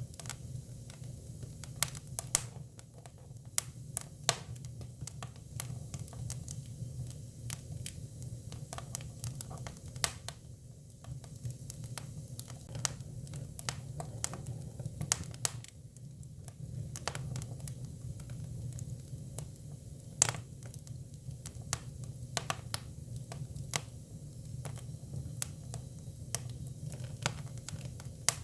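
Hinoki cypress firewood burning, crackling with irregular sharp pops and snaps over a low steady rumble of the fire; one pop about twenty seconds in is louder than the rest.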